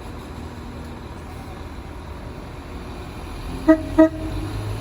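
Two-tone horn of a Northern Class 195 diesel multiple unit sounding two short blasts in quick succession near the end, over a low steady rumble from the train.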